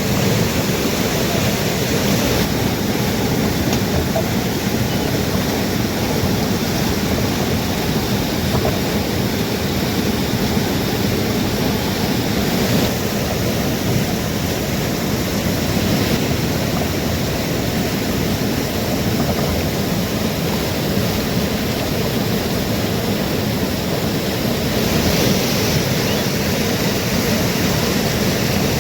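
Fast-flowing mountain river in spate: a loud, steady rush of water, swelling slightly near the end.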